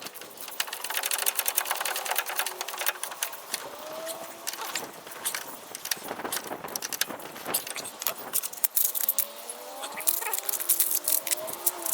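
Hand tools and metal parts clinking and rattling in quick, irregular clicks, busiest early and again near the end, with a few faint squeaky gliding tones near the end.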